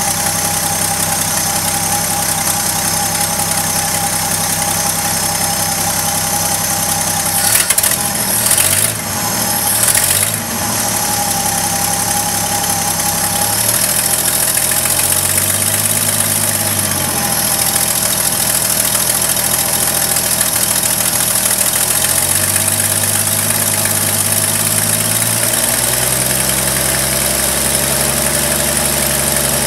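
1972 Chevrolet Custom 10 pickup's engine idling, its speed sagging and picking back up a few times. A few louder rushes of noise come about a third of the way in.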